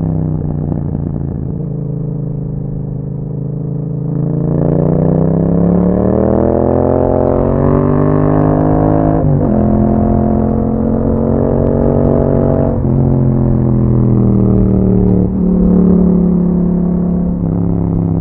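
2021 Yamaha MT-07's 689 cc parallel-twin engine through an Akrapovic exhaust, under way on the road. The engine note holds low for about four seconds, then climbs steadily under acceleration. About nine seconds in it breaks and drops in pitch as the rider shifts up, with further shifts near thirteen and fifteen seconds.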